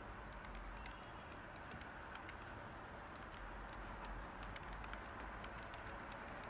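Light typing on a computer keyboard: soft, irregular key clicks over a steady white-noise hiss.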